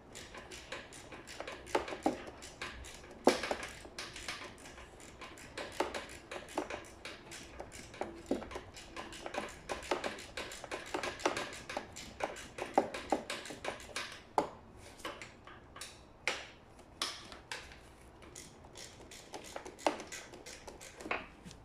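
Irregular clicks, taps and light knocks of hand tools and parts being handled as fixings are undone on a scooter, a few sharp clicks a second with no engine running.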